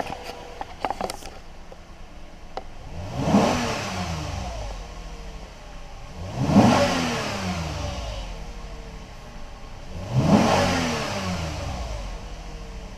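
2019 Toyota Highlander's 3.5-litre V6 engine idling and revved three times; each rev is a quick blip whose pitch falls back to idle over a second or two.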